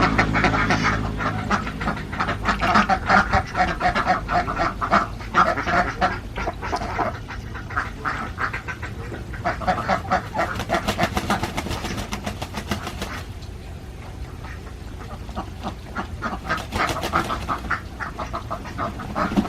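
A flock of Alabio ducks quacking, many short calls overlapping in quick succession. The calling thins out for a few seconds about two-thirds of the way through, then picks up again.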